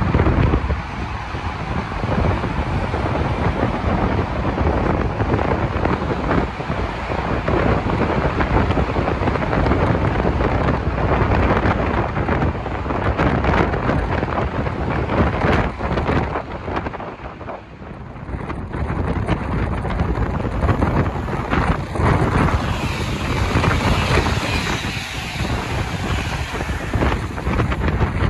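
Trains running through a station, with wind buffeting the microphone. First a DSB EB (Siemens Vectron) electric locomotive with coaches, then, after a cut about 18 seconds in, a set of three coupled IC3 diesel multiple units.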